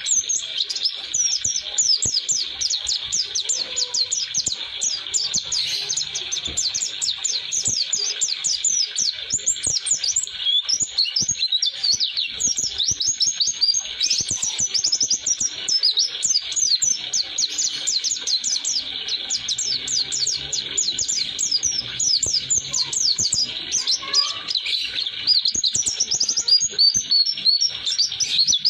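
White-eye (pleci) singing a long, unbroken run of rapid, high-pitched chirping notes, the continuous rolling song prized for tutoring other white-eyes.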